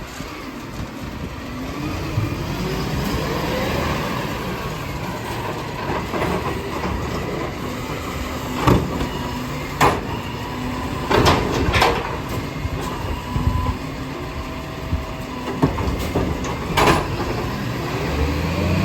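Garbage truck running, its engine pitch rising about two seconds in, with several sharp metallic clanks and bangs through the second half.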